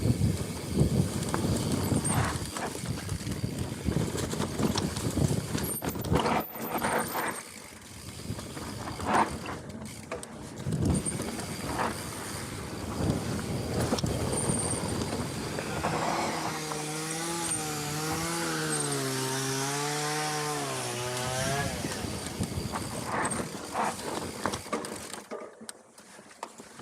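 Mountain bike riding down a rough trail: wind rushing over the microphone with frequent knocks and rattles from the bike. Past the middle, a buzzing, wavering drone rises and falls in pitch for about five seconds.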